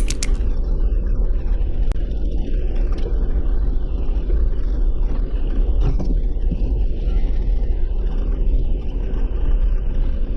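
Off-road vehicle driving along a gravel forest road: a steady low rumble of engine and tyres.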